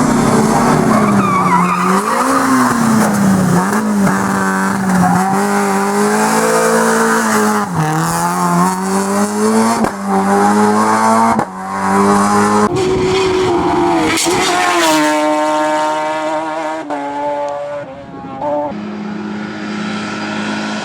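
Race car engine driven hard at high revs, its pitch repeatedly rising and then dropping sharply as the driver changes gear and lifts off, with a quick run of rising revs a little past the middle.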